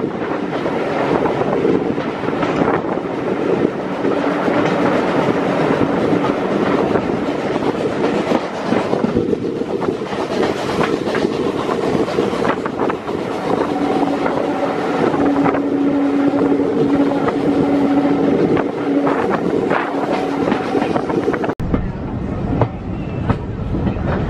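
A heritage steam railway's train running on the rails: a steady rumble and rattle of wheels and carriages, with a held humming note through the middle part. The sound changes abruptly near the end.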